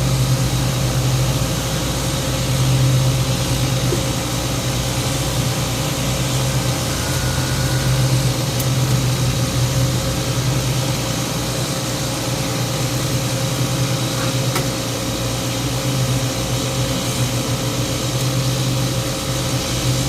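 Steady mechanical drone of a running motor or engine, its low hum swelling and easing slightly every second or two.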